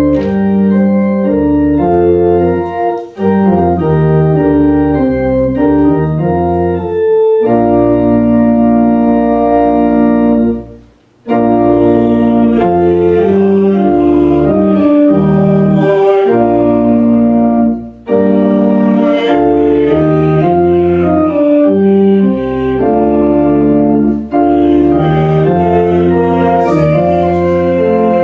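Church organ playing a hymn in full sustained chords, phrase by phrase, with short breaks between phrases and a longer pause about eleven seconds in.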